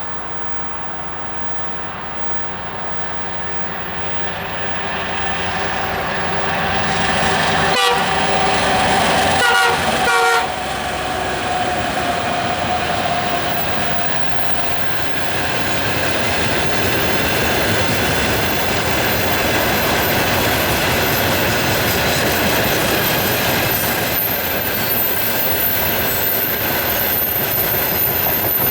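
2M62UM diesel freight train drawing near and passing, growing louder over the first several seconds. Its horn sounds for several seconds about a quarter of the way in, then gives way to a steady rumble and clatter of the wagons on the rails.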